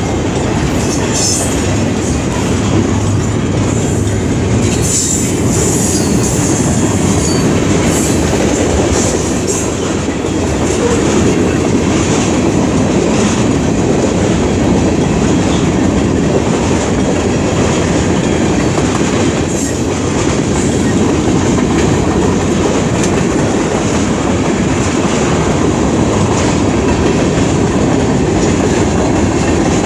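A long intermodal freight train passing close by: a steady, loud rumble of the cars rolling over the rails, with wheel clatter and a few faint high wheel squeals in the first several seconds.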